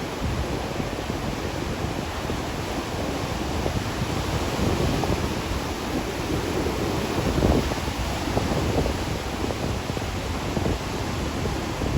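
Heavy surf breaking at high tide, with strong wind buffeting the microphone.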